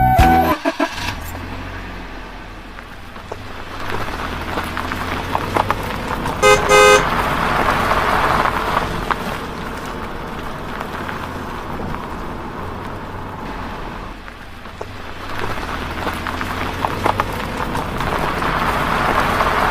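Steady rushing vehicle noise with a low hum, and one short horn toot about six and a half seconds in.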